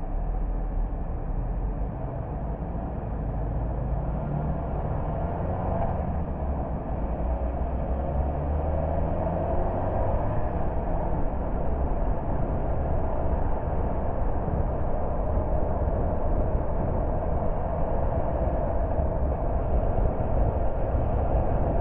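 A car driving along the road: steady engine and tyre rumble, with the loudness stepping up right at the start and holding even after that.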